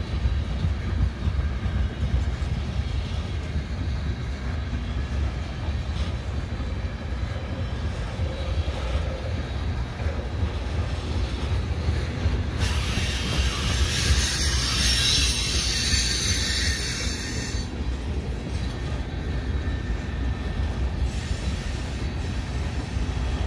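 Freight cars rolling past on the rails with a steady low rumble of wheels on track. A high-pitched hissing screech from the wheels comes in about halfway through for several seconds, and again briefly near the end.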